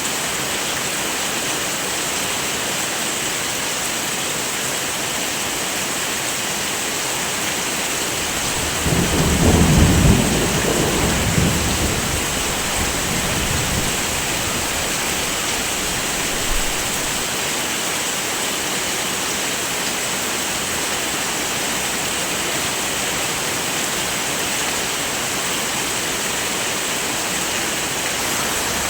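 Steady heavy rain, with a low roll of thunder about nine seconds in that rumbles for a few seconds and fades back into the rain.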